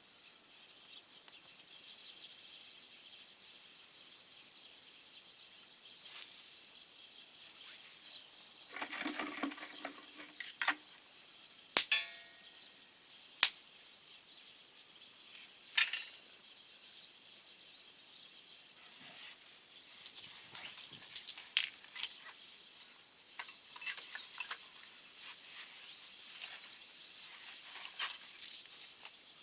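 Sharp metallic clinks and clangs from a small stainless steel wood-burning stove being handled and fed. A few loud strikes come around the middle, one ringing briefly, with rustling and lighter taps in between.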